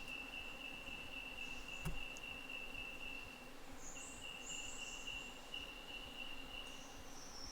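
An insect's steady, high, continuous buzzing trill, faint, with a short break about halfway through; higher, hissier insect calls come in after the break, and there is a single sharp knock about two seconds in.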